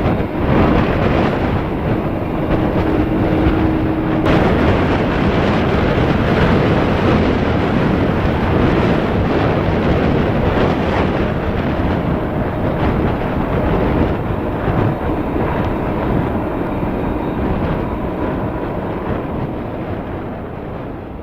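Boeing 767-375ER jet engines running loud and steady, with a brief steady tone a few seconds in, slowly fading near the end.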